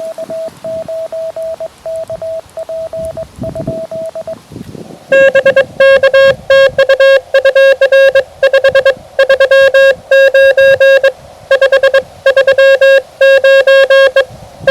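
Morse code (CW) tones from a QRP Labs QMX transceiver: a fainter, higher-pitched keyed tone for the first few seconds, then about five seconds in a much louder, lower, buzzier tone keyed in dots and dashes that runs on through the rest.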